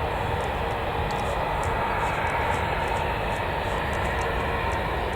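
Jet airliner engines heard at a distance: a steady rumble and hiss with a faint, even whine.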